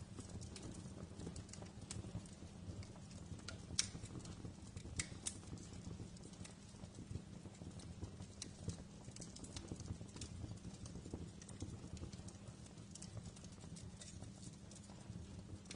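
Wood fire crackling in a fireplace: a low steady rumble of burning with irregular sharp pops and snaps, the loudest pop about four seconds in.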